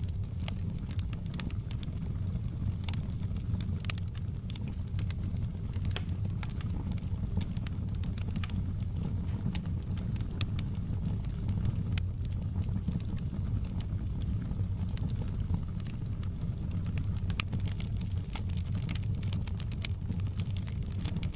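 Crackling fireplace: a steady low rumble of burning wood with irregular sharp crackles and pops scattered throughout.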